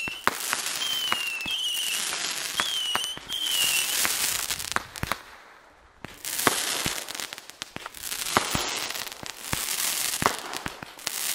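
Consumer fireworks going off: sharp pops and crackling, with a high whistling tone that rises and drops repeatedly over the first few seconds. There is a short lull about five seconds in, then another run of pops and crackle.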